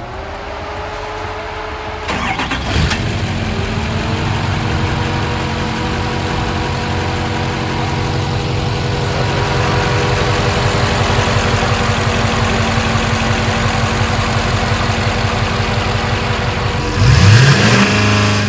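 Duramax V8 turbodiesel starting: a rising whine, then the engine fires about two seconds in and settles into a steady diesel idle. Near the end it is revved once, rising and falling.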